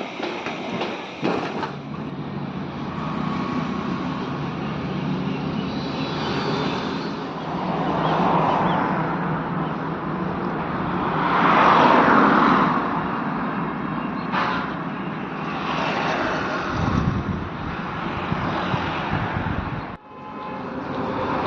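A vehicle engine running steadily, with swelling road or traffic noise that peaks about two-thirds of the way through, and a short sharp knock in between. The sound cuts off abruptly near the end.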